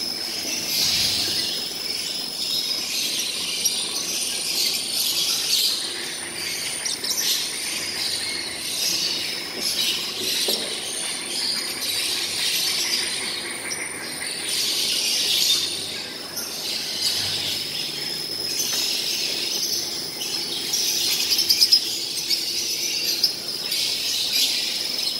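A flock of lovebirds chattering and screeching continuously, with many shrill calls overlapping.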